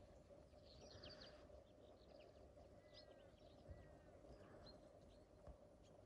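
Faint distant birdsong: scattered high chirps and twitters, with two short falling whistled notes about three seconds in, over a faint steady hum.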